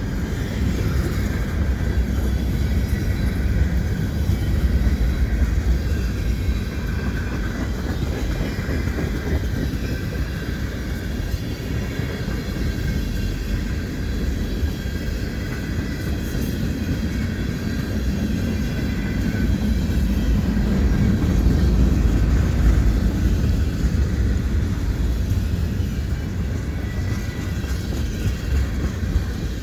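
Double-stack intermodal freight cars of a Canadian Pacific train rolling past: a steady low rumble of steel wheels on the rails that swells slightly and then eases.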